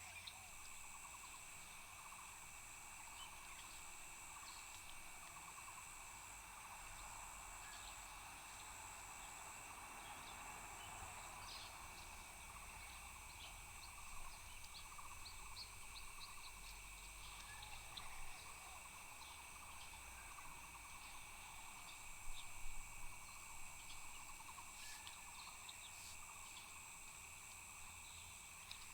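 Faint chorus of insects trilling steadily at two high pitches, with scattered short chirps or clicks, a cluster of louder ones about two-thirds of the way through.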